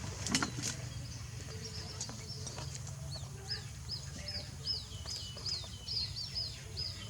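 An animal's high chirping calls, short arched notes repeated about two to three times a second from about three seconds in, over a steady low hum.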